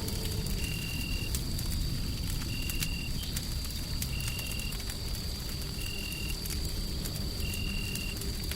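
Wood fire crackling, scattered sharp pops over a steady low rumbling noise bed. A thin high tone holds throughout, and a short higher tone repeats about every one and a half seconds.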